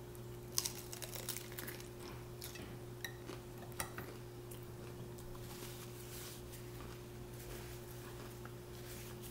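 Crunching and chewing of a crisp hard-shell taco, a string of sharp crackles over the first four seconds that then die down, over a steady low electrical hum.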